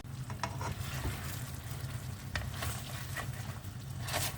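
Chicken drumsticks sizzling in a thick, syrup-like Coca-Cola sauce reduced in a pan as they are stirred and turned, with scattered pops and utensil clicks over a steady low hum.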